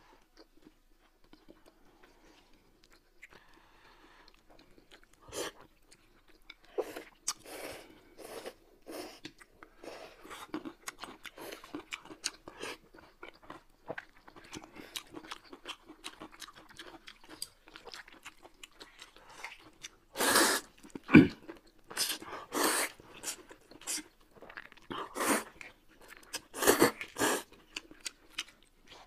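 Close-miked eating sounds of two people at a meal of buckwheat noodles: chewing with many small wet clicks. From about two-thirds of the way in come a run of much louder, sharper bites and crunches.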